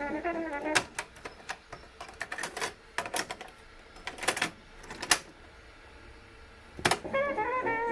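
Music from a Panasonic boom box stops a little under a second in, followed by a run of sharp mechanical clicks and clacks from the machine's buttons and mechanism. After a quieter stretch, a single sharp click comes near the end and the music starts again.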